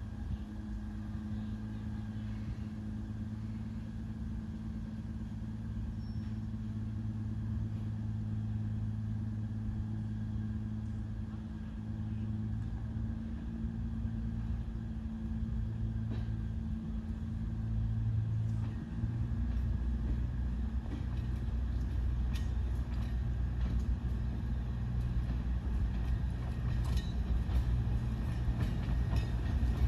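Diesel locomotive engine running with a steady low hum. Its note changes about two-thirds of the way through and grows gradually louder toward the end.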